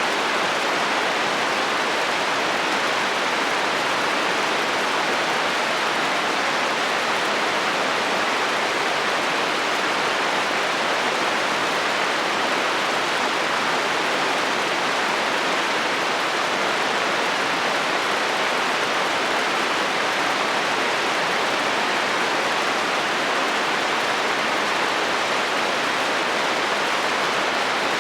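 Steady heavy rain falling on a metal roof, an even, unbroken patter with no thunder.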